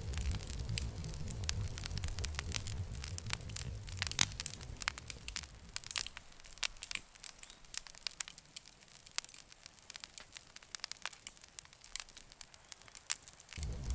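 Campfire crackling with many sharp, irregular pops, over a low rumble that fades out about halfway through and comes back near the end.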